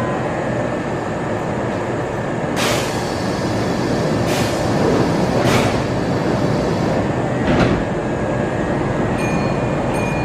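Kintetsu electric commuter train standing at a platform, its onboard equipment running with a steady noise, broken by a few short sharp hissing sounds about every second or two.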